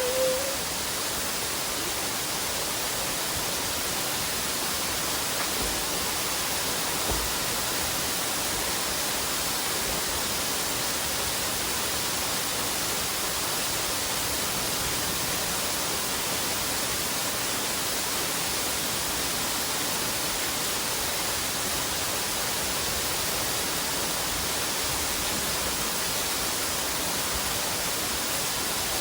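Steady rush of a waterfall and stream, an even, unbroken wash of falling water.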